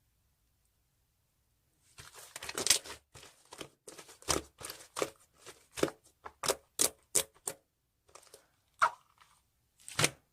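A run of irregular short taps and rustles, starting about two seconds in after near silence, like objects being handled close to the microphone.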